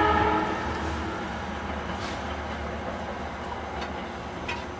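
SEPTA Silverliner IV electric multiple-unit train: the end of a horn blast about half a second in, then the train rumbling away along the track, its sound slowly fading.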